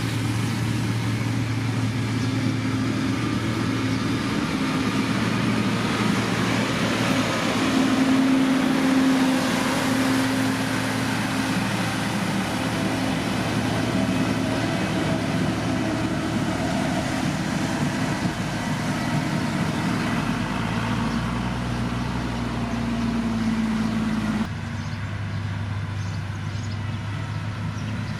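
Diesel engine of heavy road-construction machinery running steadily under load, its pitch drifting up and down a little. About 24 seconds in, the sound changes abruptly to another steady engine sound.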